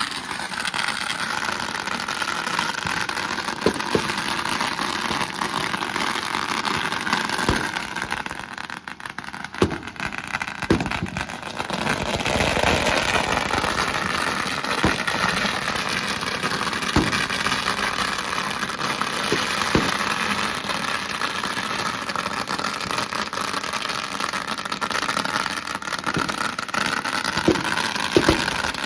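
Dense, continuous crackling of many firecrackers going off together, with scattered sharper bangs. The crackle thins briefly about eight seconds in and swells again a few seconds later.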